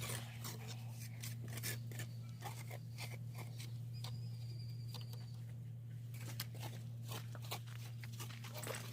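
Irregular short scrapes and clicks over a steady low hum.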